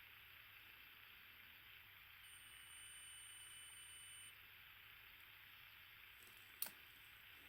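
Digital multimeter's continuity beeper sounding one steady high beep for about two seconds: the probes are touching two points that are connected. A single sharp click comes near the end.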